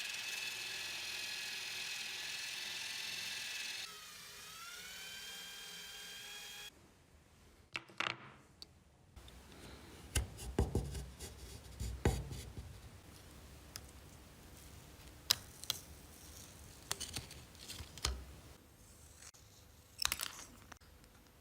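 A small power tool runs with a steady high whine, its pitch dipping and recovering about four seconds in, then stops. After that come scattered clicks and knocks of parts and tools being handled.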